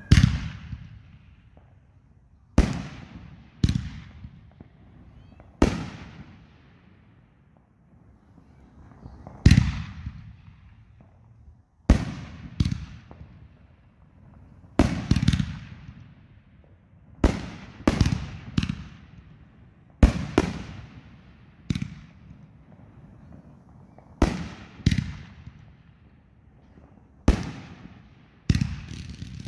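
Aerial fireworks bursting overhead: a string of sharp bangs at irregular intervals, often one every second or two and sometimes two or three in quick succession, each trailing off in echo.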